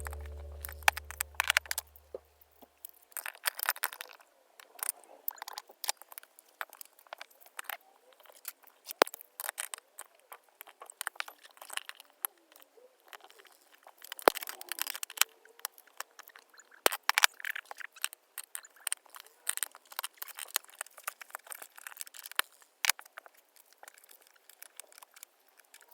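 Irregular light clicks and clinks of small hard parts being handled, in scattered clusters with short pauses between them.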